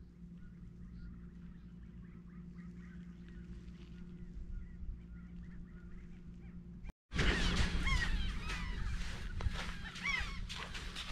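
Birds calling: faint short chirps at first, then, after a brief break about seven seconds in, a loud chorus of many rapid, swooping calls. A steady low hum runs underneath.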